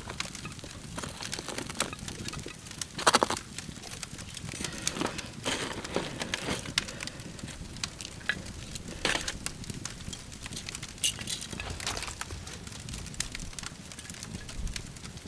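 Wood campfire crackling, with irregular pops and snaps and a louder crack about three seconds in.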